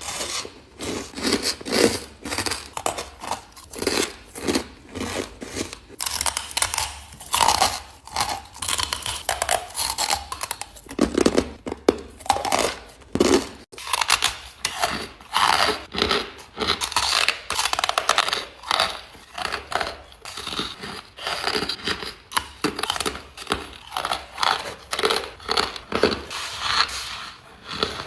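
Ice being bitten and chewed close to the microphone: a steady run of crisp crunches, several a second.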